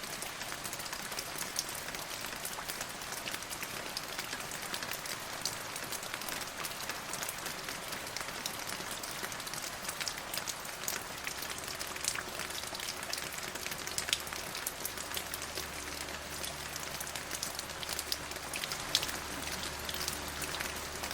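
Steady rain, with many individual drops ticking on a surface over an even hiss. About halfway through, a faint low steady hum with a few quiet held tones comes in underneath.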